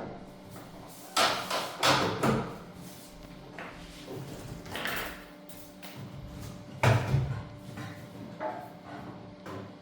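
Tools and metal parts clanking and scraping on a washing machine under repair: a run of sharp clanks a little over a second in, another scrape near the middle and a loud knock about seven seconds in.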